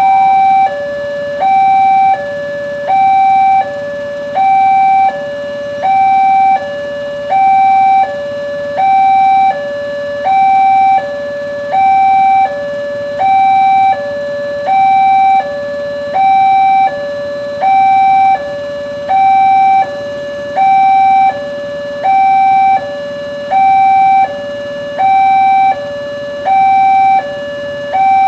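Indonesian railway level-crossing warning alarm sounding its electronic two-tone signal, a higher and a lower tone alternating steadily about once every one and a half seconds, the higher tone louder. It warns that a train is approaching and the crossing barriers are down or closing.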